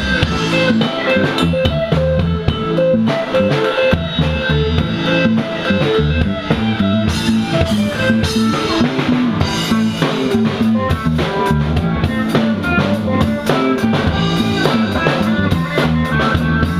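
Live band playing: a drum kit beating steadily with rimshots and kick drum under electric guitar.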